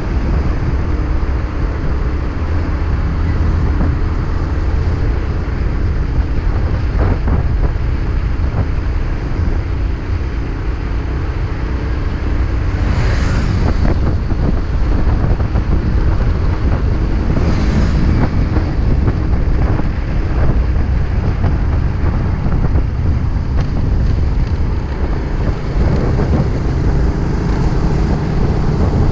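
Freshly overhauled motorcycle ridden at road speed: a steady engine drone buried in heavy wind noise on the microphone. Twice near the middle, a brief louder swish rises over it.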